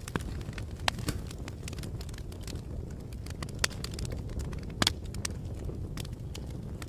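Fire crackling: a steady low rumble with irregular sharp pops and snaps, the loudest about five seconds in.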